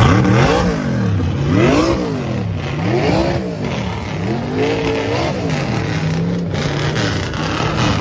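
Car engine revved repeatedly, about five blips that each rise and fall in pitch, then settling to a steadier note near the end.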